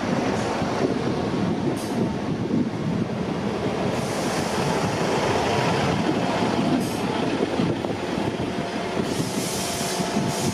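South Western Railway diesel multiple unit rolling past close by as it pulls into the platform: a continuous rumble of wheels and underfloor engines, with a few faint steady tones joining in during the second half as it slows.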